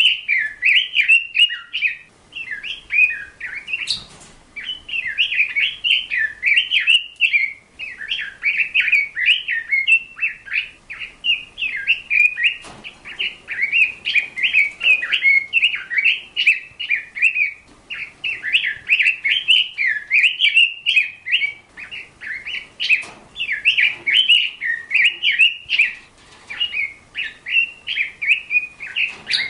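A songbird singing close by: long, fast runs of chirps and warbles that go on almost without a break, pausing only briefly a few times.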